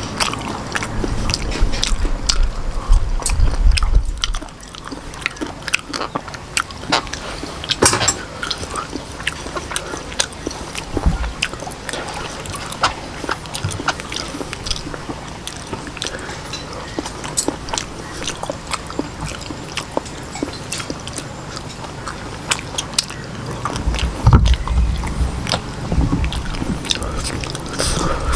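Close-up mukbang eating sounds: chewing octopus and rice noodles, with many wet mouth clicks and smacks. The chewing is heavier and thuddier for the first few seconds and again near the end.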